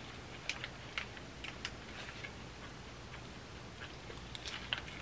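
Faint chewing of a mouthful of rice burger, with a few soft, sparse clicks spread through the chewing.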